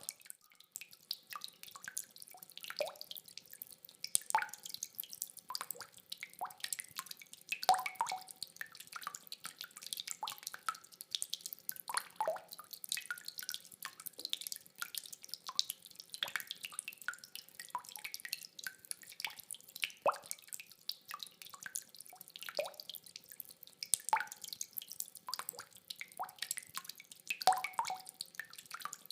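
Rainwater dripping: irregular drops falling several times a second, some louder than others, with no thunder.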